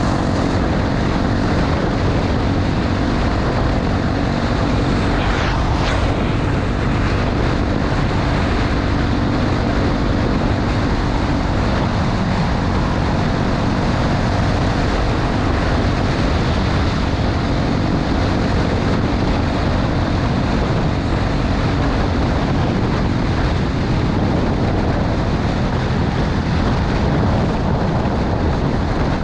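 Honda XR250 Tornado's single-cylinder four-stroke engine running at a steady pace, under heavy wind rush on the microphone.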